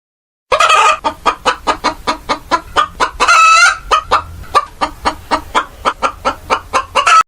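Domestic hen clucking rapidly, about five clucks a second, with one longer drawn-out call in the middle.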